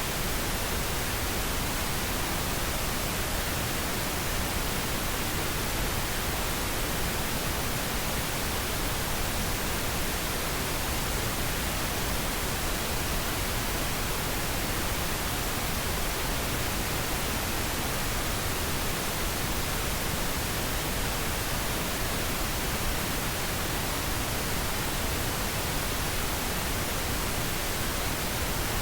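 Steady white noise: an even hiss across the whole range, unchanging throughout, with no distinct events.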